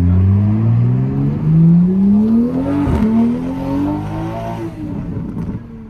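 Toyota GR Supra accelerating hard through the gears with a loud exhaust: the engine note climbs steadily, drops sharply at an upshift about three seconds in, and climbs again. The throttle closes near the end and the note falls away into a rough low crackle.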